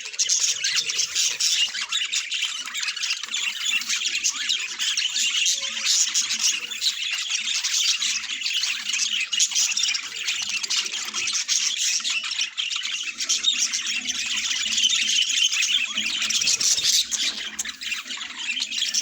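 Budgerigars chattering and squawking without a break, many quick calls overlapping.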